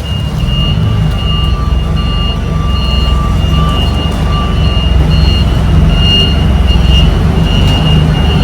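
Semi truck's diesel engine running as the rig backs up, with a high back-up alarm beeping in an even repeating pattern over it.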